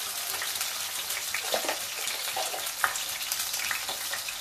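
Cubed potatoes frying in hot oil in a stainless steel pan, already starting to change colour: a steady sizzle with scattered crackles and pops.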